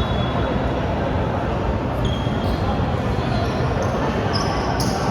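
A basketball bouncing on a gym court over steady hall and crowd noise, with a few brief high squeaks about two seconds in and near the end.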